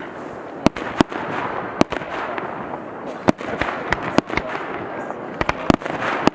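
Fireworks going off: a string of sharp bangs at irregular intervals, coming closer together in the second half, over a steady background noise.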